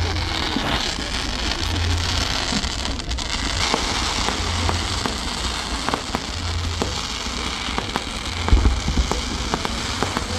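Fireworks crackling with many scattered sharp pops over a steady hiss, and a louder cluster of bangs about eight seconds in.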